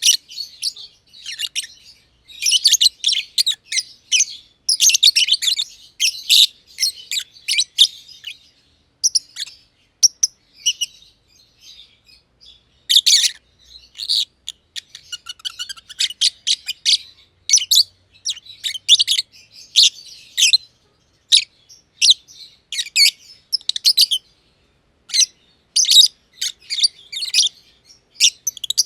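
Masked lovebirds (green and green pied personata) chirping: rapid strings of sharp, high-pitched chirps in busy bouts broken by short pauses.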